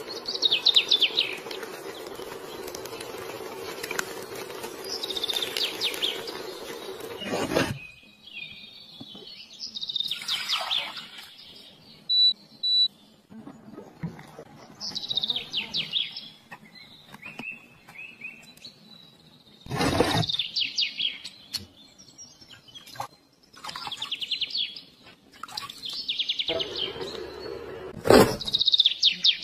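A songbird singing short, high trilled phrases, one every four to five seconds. A low steady hum runs under the first seven seconds or so, and a few sharp clicks are heard.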